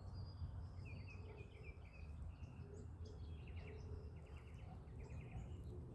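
Small songbirds chirping in short, rapid trilled phrases that repeat every second or so, faint over a steady low rumble.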